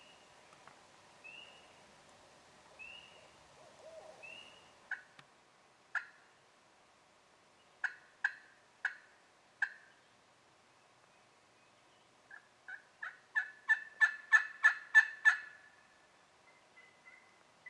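Wild turkey calling: a few scattered sharp clucks, then a run of about ten yelps at about three a second, growing louder.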